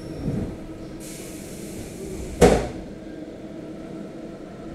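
Rumble of a commuter electric train running, heard from inside the carriage, as an oncoming electric train passes close alongside. A rushing noise starts about a second in and ends with a single sharp, loud bang about two and a half seconds in.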